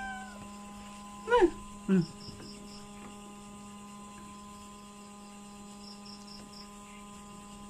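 A cat meows twice in quick succession about a second and a half in, the second call short and falling, over a steady electrical hum. Faint high insect chirps come in two short runs.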